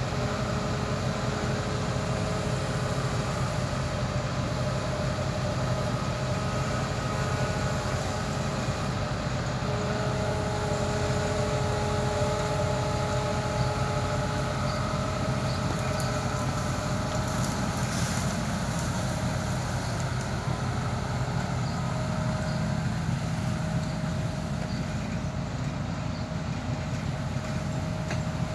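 Heavy diesel machinery running steadily, with whining tones that come and go over a constant low engine hum.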